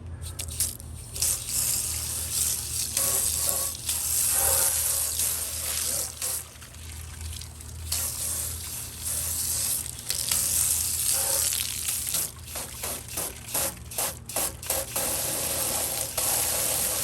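Water splashing and running into a porcelain sink as it is rinsed off, coming and going unevenly, with a run of short sharp strokes in the later part.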